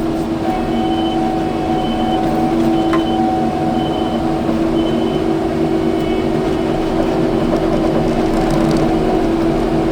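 Kubota skid steer's engine and hydraulics running steadily with a constant hum. A faint high beep repeats about once a second through the first half.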